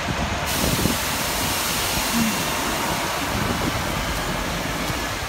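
Steady rushing noise of wind buffeting the microphone, mixed with passing city street traffic, in a heavy snowstorm; the sound turns suddenly brighter about half a second in.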